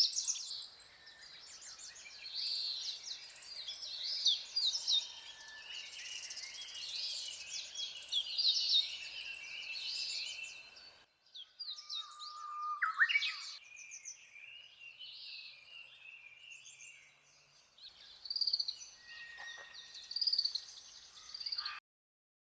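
Wild songbirds singing and calling, with dense chirps and warbles and a held whistle that sweeps up near the middle. The sound cuts off abruptly twice, as separate recordings are spliced together.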